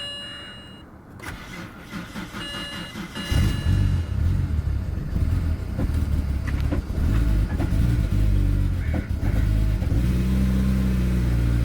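BMW N54 twin-turbo 3.0-litre inline-six cranking on the starter, catching about three seconds in and then running loud and rough on a cold start on E85. The uneven running is the misfiring that cold, unblended E85 causes in this engine.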